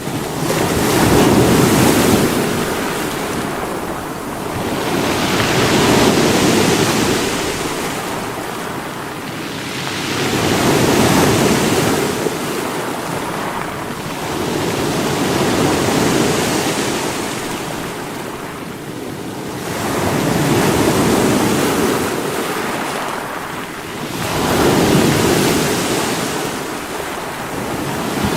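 Sea waves breaking against rocks, a steady wash of surf that swells and falls back about every five seconds, six surges in all.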